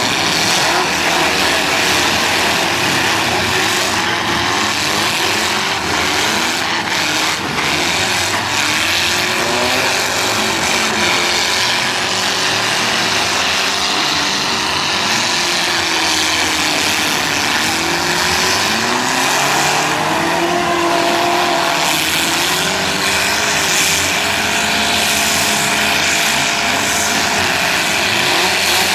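Several demolition derby cars' engines running at once and revving hard, their pitches rising and falling over one another.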